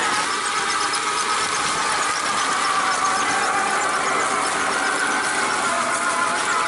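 Electric motor and gear train of a 1/6-scale RC Willys Jeep whining steadily as it drives, the pitch drifting slightly up and down with speed.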